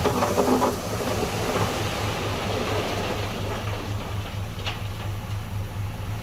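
Heavy diesel engine of earthmoving machinery running with a steady, low, pulsing throb, with one short sharp knock about three-quarters of the way through.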